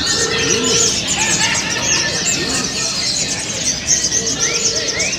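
Many caged sogon (crimson sunbirds) singing at once: a dense, continuous mass of high-pitched chirps, trills and quick twitters. A low buzzy trill sounds twice, near the start and near the end.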